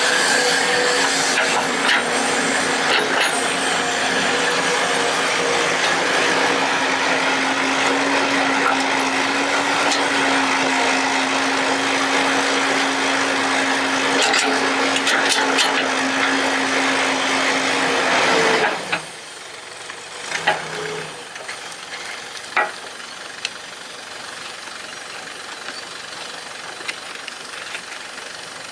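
Excavator running steadily with a constant hum over a loud noisy wash, then stopping abruptly about two-thirds of the way in, leaving a quieter background with a few sharp clicks.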